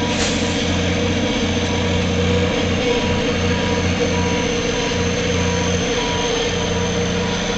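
Heavy log truck's diesel engine running steadily under light load, loaded truck backing slowly down a steep grade.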